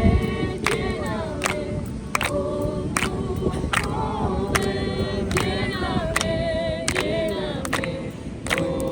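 Voices singing a slow, held melody together, with a sharp beat a little more than once a second.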